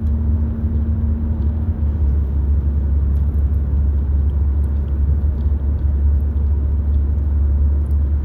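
Steady low rumble, with a faint steady hum that stops about two seconds in.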